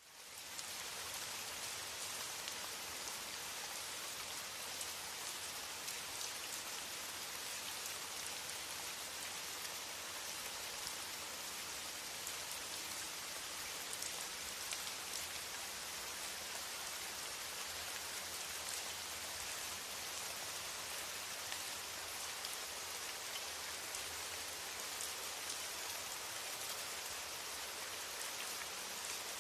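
Steady rain falling, an even hiss with faint patter of individual drops, fading in over the first half second.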